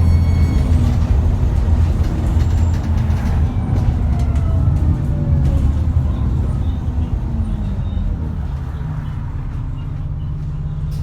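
Cummins ISBe 6.7-litre diesel engine of an ADL Enviro400 bus easing off, with the turbo whine falling steadily in pitch as the bus slows. Near the end the engine settles into a quieter, steady low hum.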